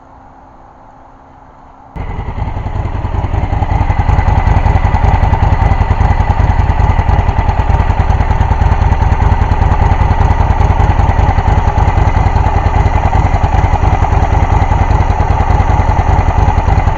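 Honda VTX 1300 V-twin motorcycle engine starts up about two seconds in, then runs steadily and loudly with a rapid even pulse. It has regained compression after years of sitting and is running on fuel fed from an IV bottle.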